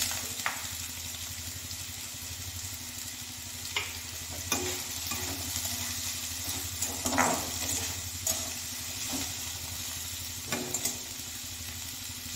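Sliced potatoes sizzling steadily in hot mustard oil in a kadai, with a metal spoon scraping and clinking against the pan now and then as they are stirred.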